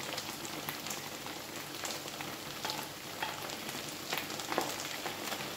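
Chicken fillet and eggplant pieces frying in vegetable oil in a frying pan: a steady sizzle with scattered pops and crackles.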